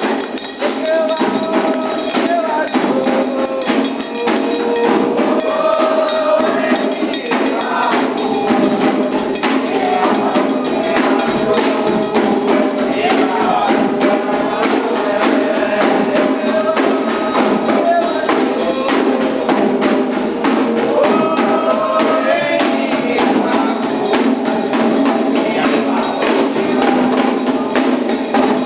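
Candomblé ritual music: voices singing a chant over steady hand-drum strokes and the ringing clank of an agogô bell.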